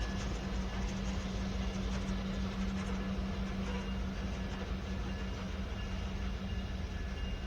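Freight cars, covered hoppers among them, rolling past on the rails with a steady, unbroken running noise and a constant low hum.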